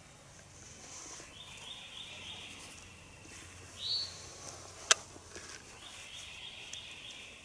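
A bird singing, a short run of high notes repeated twice with a quick upswept note between, over faint outdoor background. One sharp click a little before the middle is the loudest sound.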